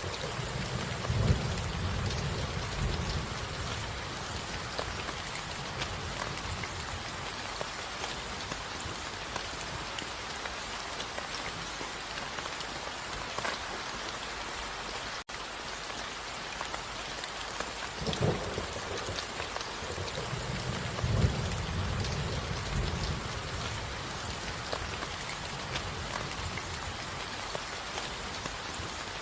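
Steady rain falling on a surface, with a low rumble of thunder about a second in and again from about 18 seconds on. The sound drops out for an instant midway.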